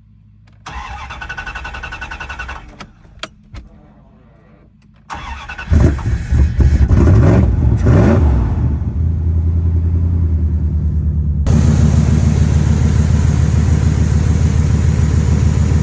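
Old Dodge Dakota pickup's engine being started on fuel fed from a freshly primed makeshift fuel cell: a first brief crank that doesn't catch, a few clicks, then a second crank about five seconds in that catches, revs up and settles into a steady idle.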